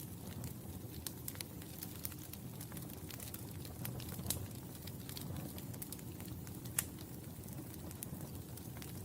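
Wood fire in a fireplace: a steady low rumble of flames with scattered sharp crackles and pops, two louder pops at about four and a half and seven seconds in.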